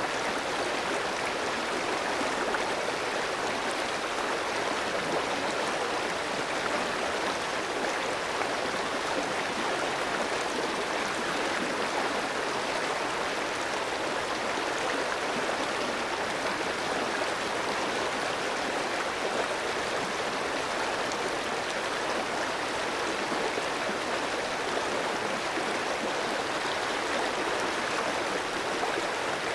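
Clear stream flowing over rocks: a steady, even rush of running water with no other sounds.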